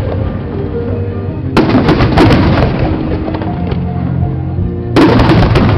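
Aerial fireworks bursting twice, about one and a half seconds in and again near the end, each burst a sudden bang trailing off into crackling, with music playing underneath.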